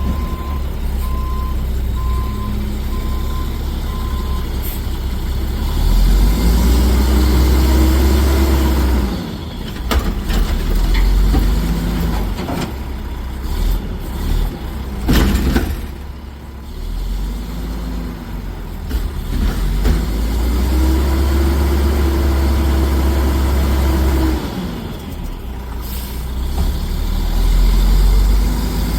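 Garbage truck at work: a reverse alarm beeps a few times at the start, then the diesel engine revs up and back down several times. A few clanks and a short hiss, like an air brake, come about halfway.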